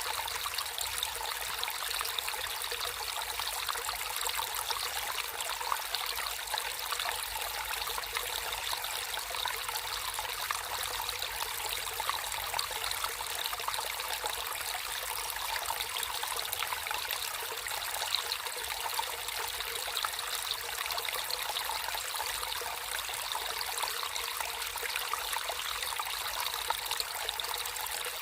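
Natural flowing water trickling and splashing steadily, a light, bright babble with no pauses.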